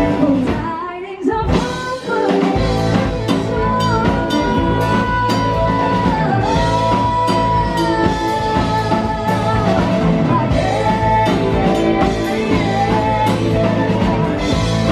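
Rock music with a singer holding long notes over guitar, bass and drum kit.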